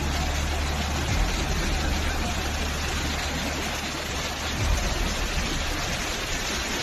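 Rushing floodwater: a steady wash of water noise over a deep, constant low rumble.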